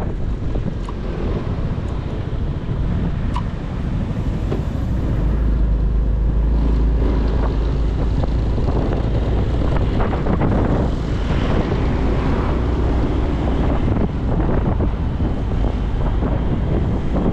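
Motorcycle riding on the road: engine and tyre noise under wind buffeting the microphone, with a heavy low rumble that gets louder about five seconds in.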